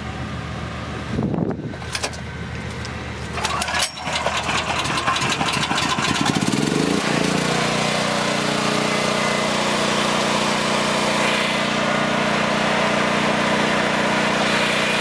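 Predator 9000 portable generator's gas engine running. After a brief break about four seconds in, its pitch rises over about three seconds and then settles into a steady, even run.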